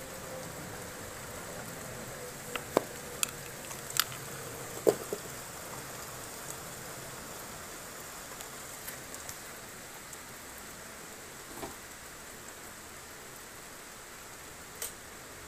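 Steady hiss of light rain, with a few sharp taps of drops on a hard surface close by, clustered in the first five seconds and two more later.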